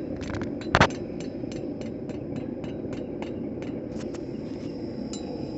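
Blacksmith's hammer on steel at the anvil: one loud blow about a second in, then a run of lighter, evenly spaced taps, about three a second, over a steady rushing background noise.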